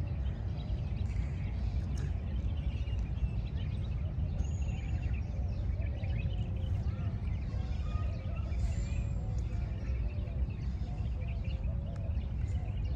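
Outdoor ambience in hill country: a steady low rumble of wind on the microphone, with faint bird calls and chirps scattered through it.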